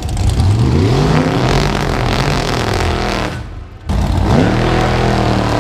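Drag racing cars accelerating hard, engine pitch climbing. The sound drops out suddenly for about half a second about three and a half seconds in, then engines rise again and hold a steady pitch.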